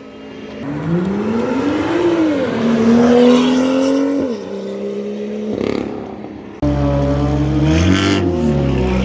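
Sports car engine accelerating hard: its pitch climbs, drops at a gear change, climbs again, then fades. Then, suddenly, a second loud, deeper engine runs and briefly revs up and down.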